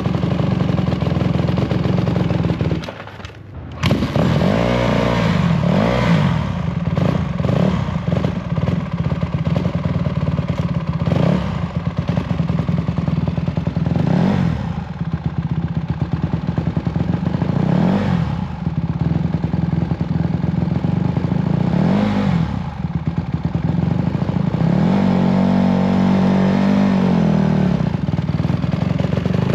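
Small Honda dirt bike engine running in first gear at low speed, the revs rising and falling again and again as the clutch is fed out, with a brief drop in sound about three seconds in.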